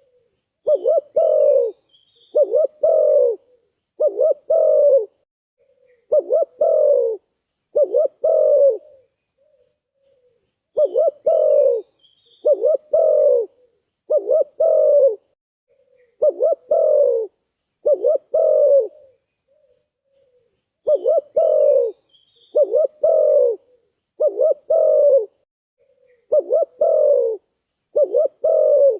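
Spotted dove cooing: a run of low coos, several notes to a phrase, with a short pause between phrases. Faint high chirps from a small bird sound now and then behind it.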